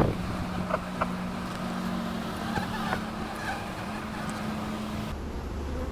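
Honeybees buzzing around an opened hive: a steady, even hum, with a few light clicks from frames being handled.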